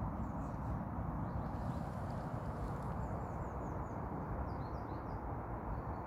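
Small birds chirping faintly over a steady low outdoor rumble, with a quick run of short high chirps about three seconds in and a few more around five seconds.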